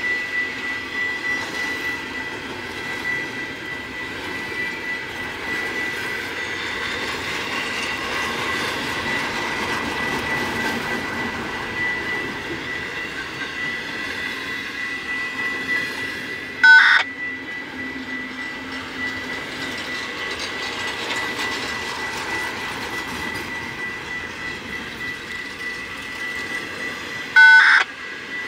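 Freight train rolling past with a steady rumble and a thin, steady high whine. Two short, loud blasts, each a chord of several tones, come about 17 s in and again near the end.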